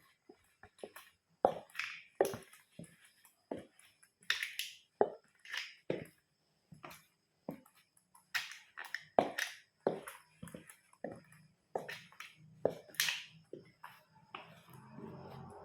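A plastic toy car cracking and crunching under a boot: a string of sharp, irregular snaps, some much louder than others. Music comes in near the end.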